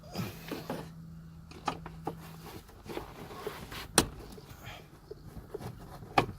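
Scattered clicks and knocks of hand tools and metal parts being worked under a car's dashboard, with two sharper knocks about four seconds in and near the end. A low steady hum runs through the first two seconds.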